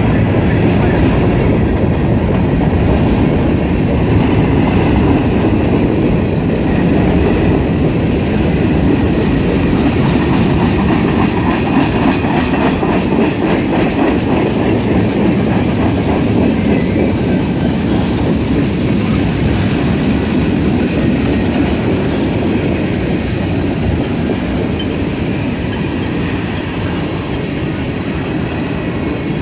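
Freight cars of a passing train rolling by: covered hoppers, a boxcar and tank cars, their steel wheels making a steady rumble on the rail with clickety-clack over the joints. The sound eases a little near the end.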